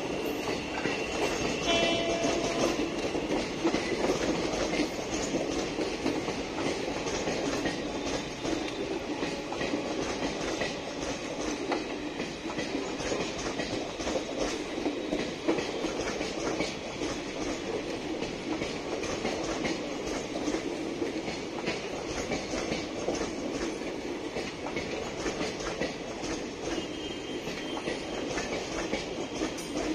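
A rake of ICF passenger coaches rolling past: a steady rumble with the clickety-clack of the wheels over rail joints.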